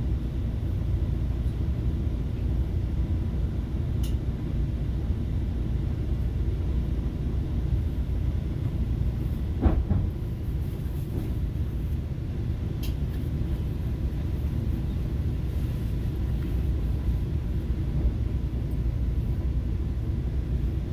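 Steady low rumble of a FrontRunner commuter train running on the rails, heard from inside a passenger car, with one sharp knock about ten seconds in and a few faint clicks.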